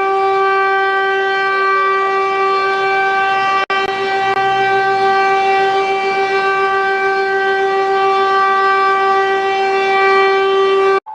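Alarm siren sounding one steady, unchanging tone with a buzzy, many-overtoned timbre. It breaks off for an instant about four seconds in and cuts off abruptly at the end.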